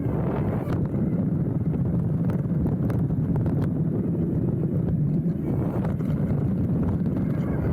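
Wind rushing over a handlebar-mounted action camera's microphone and tyres rumbling on a dirt trail as a hardtail mountain bike rolls downhill, with scattered sharp clicks and rattles from the bike.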